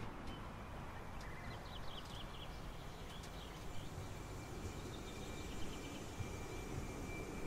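Faint chirping birds over a low, steady background hiss and rumble, with a thin steady high tone from about a second in.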